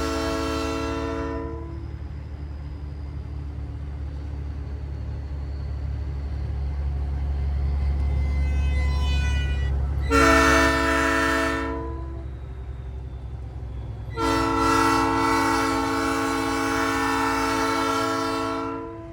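Nathan Airchime P3 chime train horn mounted on a big rig, blowing a steady multi-note chord in three blasts: one that cuts off about a second and a half in, a short blast about ten seconds in, and a longer blast of about four and a half seconds near the end. A steady low truck engine rumble runs underneath throughout.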